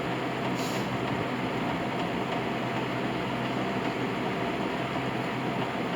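Steady machine hum, like a fan or small motor running, with faint even tones through it and a brief hiss about half a second in.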